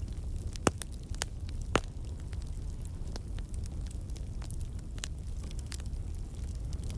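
Wood campfire crackling: irregular sharp pops and snaps from the burning logs, two louder pops in the first two seconds, over a steady low rumble of the flames.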